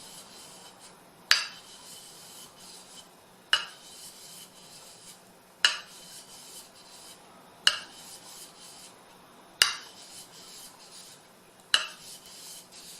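A wet sharpening stone stroked along the flat back of a steel drawknife blade. There are six even strokes about two seconds apart, each starting with a sharp scrape that rings briefly, followed by a faint rub.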